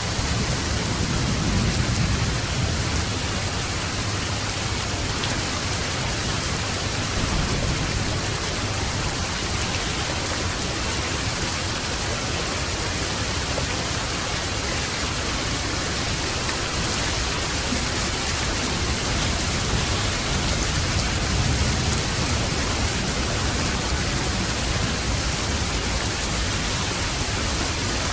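Steady, heavy rain falling, an even hiss with no break, with low rumbles swelling up briefly a few times.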